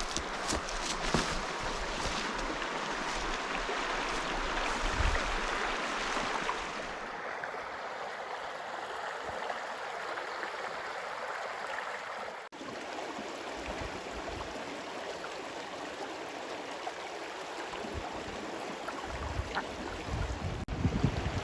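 Mountain stream rushing steadily over rocks. The water sound changes character about seven seconds in, and there are a few low thumps near the start and again near the end.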